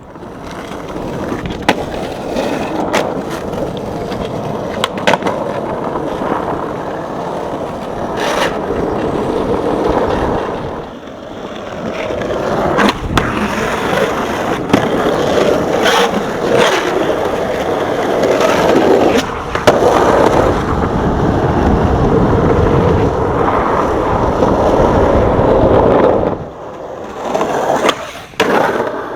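Skateboard wheels rolling on rough pavement, a continuous rumble broken by repeated sharp clacks of the board's tail popping and the board landing. The rolling eases briefly about a third of the way in and fades near the end, with one last clatter.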